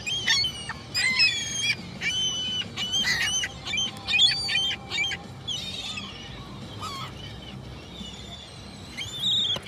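Gulls calling, several overlapping calls in quick succession during the first half, then fewer, with one loud call again near the end.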